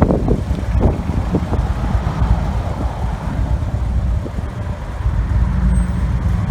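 Victory Vision V-twin motorcycle cruising, its engine drone mixed with wind and road noise, with a few gusts buffeting the microphone in the first second.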